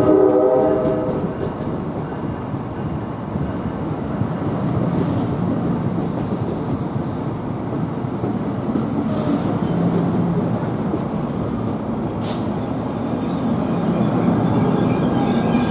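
Train horn chord ending about a second in, then the steady rumble and rolling noise of a commuter train moving through the station, with a few short hisses.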